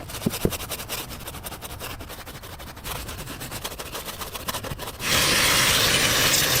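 Quick, repeated rubbing or scraping strokes on a surface, then a loud steady hiss that starts suddenly about five seconds in.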